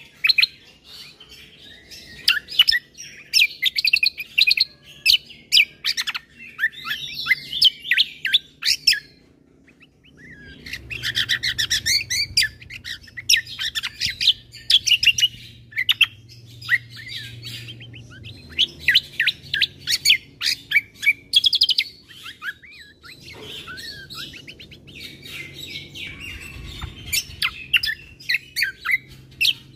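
Kecial kombo (cucak kombo) songbird singing a fast, chattering song of rapid high chirps and trills, in bursts with a brief pause about nine seconds in. A faint low rumble sits underneath in places.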